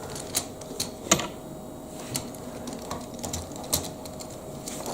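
Plastic Lego Technic pieces clicking and clattering as they are handled and fitted together, in irregular sharp clicks with one louder snap about a second in.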